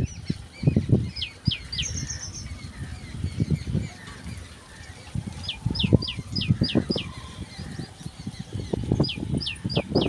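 A bird calling in short runs of sharp, downward-sliding whistles: three about a second in, six around the middle, four near the end. Irregular low thumps and rustling run underneath.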